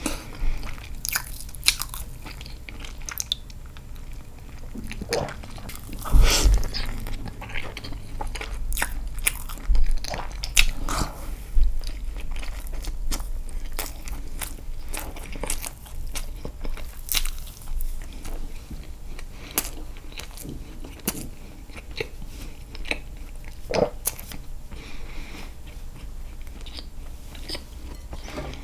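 Close-miked mouth sounds of someone eating castella sponge cake dipped in milk: chewing with many irregular clicks and smacks, a few of them louder.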